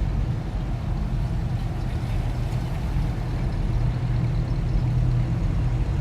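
Low, steady rumble of classic car engines as cars cruise slowly past at low speed.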